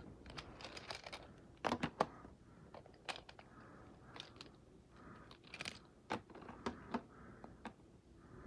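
Scattered light clicks and clatter of small die-cast toy monster trucks being handled, picked up and set down. The loudest clicks come as a pair about two seconds in and once more about six seconds in.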